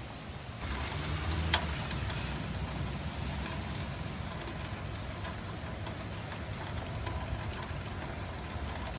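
Steady rain falling with a hiss, louder from just under a second in, with scattered drops ticking and one sharp tick about a second and a half in.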